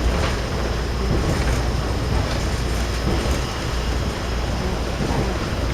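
KiHa 52 diesel railcar under way: a steady low rumble of the running train with faint clicks of the wheels over the rail joints.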